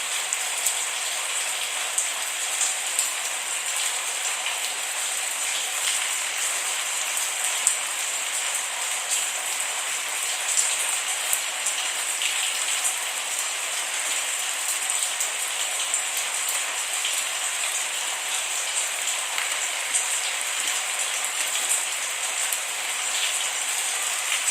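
Steady rain falling, with many small raindrop ticks on a hard surface and no thunder.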